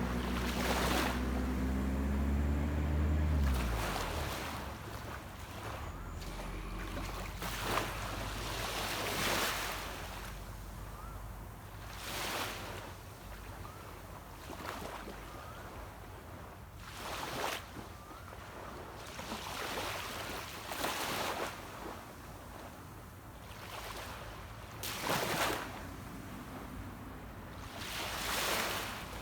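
Small sea waves washing onto a beach, one swell every few seconds. Under them, a boat's engine hums low for the first few seconds, dropping slightly in pitch, and cuts off about three and a half seconds in.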